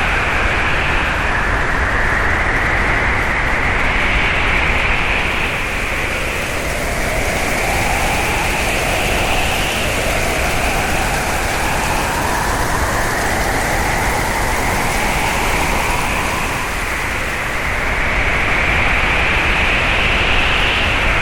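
Hurricane-force wind: a loud, steady rush with whistling tones that slowly rise and fall, gusting over several seconds at a time.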